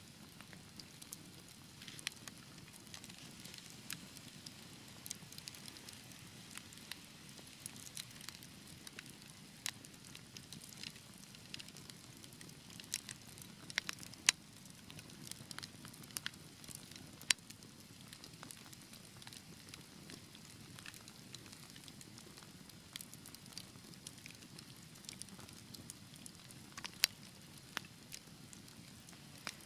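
Wood fire crackling in a fireplace: a low steady hush of burning with frequent small snaps and pops, a few of them sharper and louder, the sharpest about halfway through and near the end.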